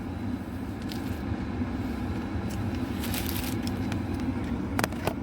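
Steady low rumble of a car idling, heard from inside the cabin, with a few short clicks and a brief rustle.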